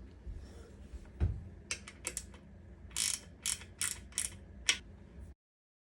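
Metal hand tools clicking and knocking on the engine casing as the new clutch cover screws are done up on a Suzuki RM80 two-stroke engine. Scattered clicks give way to a run of about five sharp clicks, roughly two a second, in the second half, then the sound cuts off suddenly.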